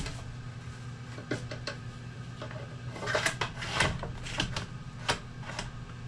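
Clinks, clicks and knocks of tools or metal parts being handled and set down, a cluster about three seconds in and a single sharp one about five seconds in, over a steady low hum.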